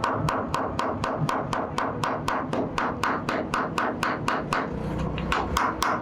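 A hammer striking steel from a truck leaf spring being forged, in rapid, even blows about four a second, with a metallic ring on each strike. There is a short pause near the end, then a few more blows.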